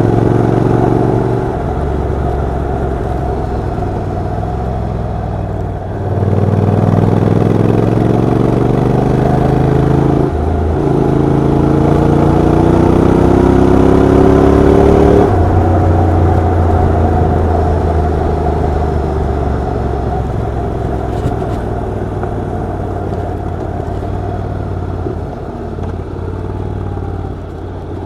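Honda NC750X motorcycle's parallel-twin engine running under way. Its pitch climbs steadily as it accelerates from about six seconds in, falls abruptly at a gear change around fifteen seconds in, then runs lower and steadier. There is another drop in pitch a second or two in.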